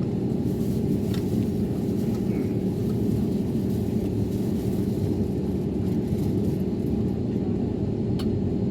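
Steady low rumble and hum of an Airbus A321neo, with a few faint clicks.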